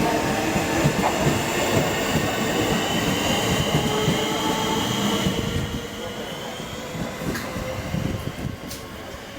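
Train running along the platform, with several high-pitched tones from the wheels and running gear sliding slowly down in pitch as it slows; the noise drops off about halfway through.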